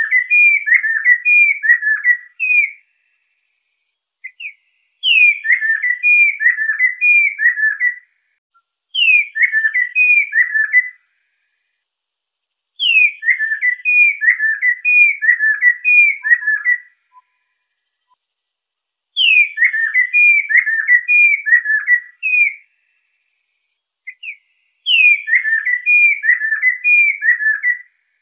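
Lesser necklaced laughingthrush singing: repeated phrases of several quick, down-slurred whistled notes, each phrase lasting two to four seconds, about six phrases with short silent gaps between them.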